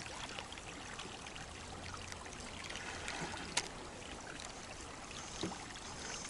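Running water trickling steadily, with a single sharp click about three and a half seconds in.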